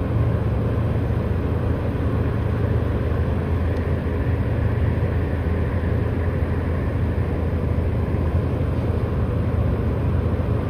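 Strong dust-storm wind buffeting the microphone: a steady, loud low rumble with a rushing hiss above it.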